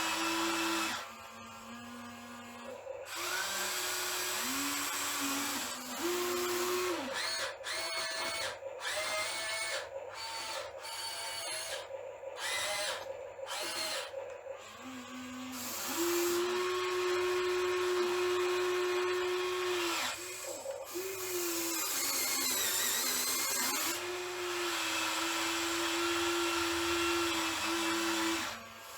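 Small electric motors of a radio-controlled excavator whining as it works. The whine starts and stops again and again and steps between higher and lower pitches as the motors are driven under changing load.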